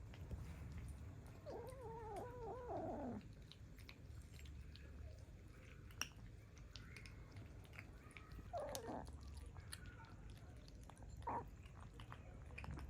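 Kitten meows: a long, wavering meow about two seconds in, a falling meow near nine seconds, and a short one near eleven seconds, with faint small clicks in between.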